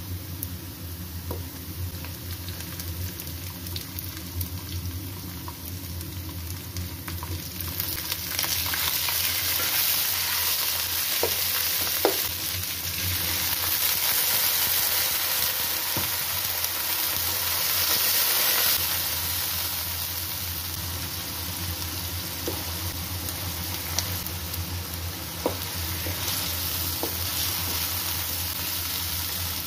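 Onions frying in hot oil in a non-stick wok, sizzling steadily while a wooden spoon stirs, knocking against the pan a few times. The sizzle rises louder for several seconds in the middle as water is poured into the hot oil.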